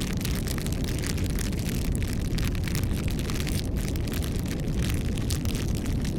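Wood fire burning steadily: a low roar of flames with dense, continuous crackling and snapping of the burning wood.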